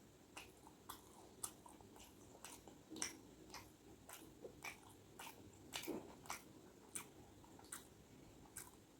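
Faint, close-miked chewing and biting by a person eating, with short moist mouth clicks coming irregularly, roughly one or two a second.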